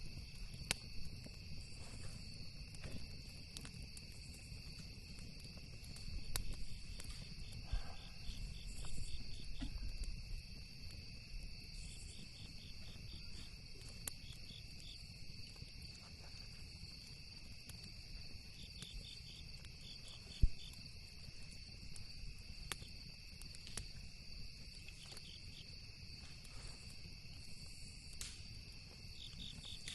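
Campfire crackling with scattered small pops, one sharp pop standing out about twenty seconds in, over a steady chorus of crickets with bursts of pulsed chirping now and then, and a low rumble underneath.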